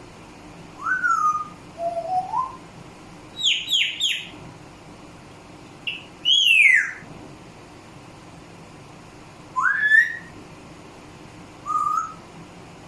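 Pet parrot whistling: a string of short whistles that slide in pitch, some rising and some falling, a few seconds apart. The loudest is a long falling whistle near the middle.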